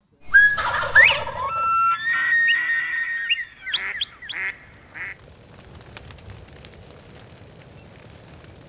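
Bird calls with clear whistled notes and rising and falling cries for about five seconds. They give way to a small fire crackling faintly as it burns through dry leaves and grass.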